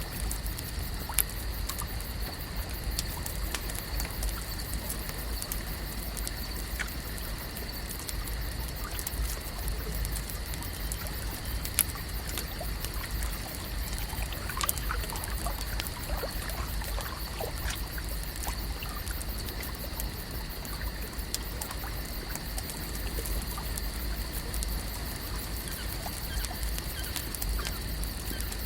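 Lake ambience: water trickling and lapping steadily over a low rumble, with sparse sharp clicks and a faint steady high-pitched tone.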